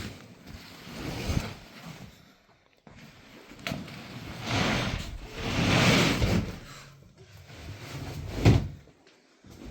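Household handling noises: two stretches of scraping and rustling, the second longer, then a sharp knock.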